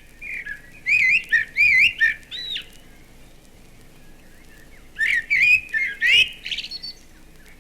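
Male blackbird singing: two fluent, warbled whistled phrases, the second about five seconds in.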